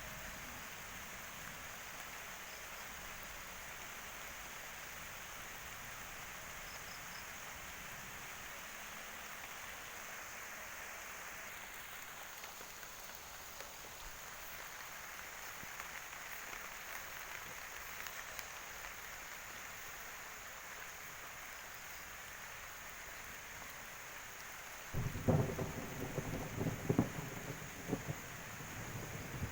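Steady rain falling, an even hiss. About 25 seconds in, a loud rumble of thunder comes in suddenly and rolls for a few seconds.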